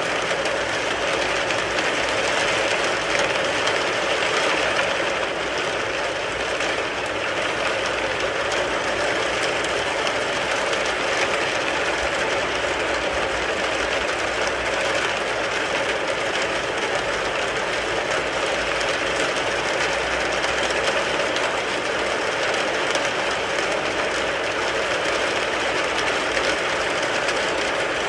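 Steady heavy rain drumming on a car's roof and body, a dense even patter of drops that never lets up.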